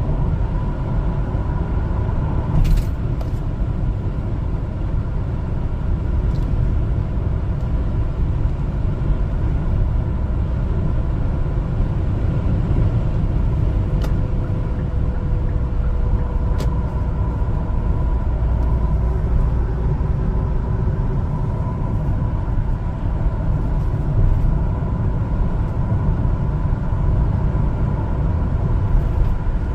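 A 1-ton LPG cargo truck driving, its engine and road noise making a steady low rumble with a faint steady whine above it and a few brief clicks.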